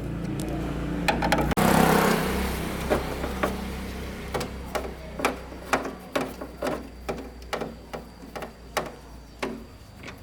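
A small motor hums steadily while irregular clicks and taps sound, about two a second, with a brief hiss near the start.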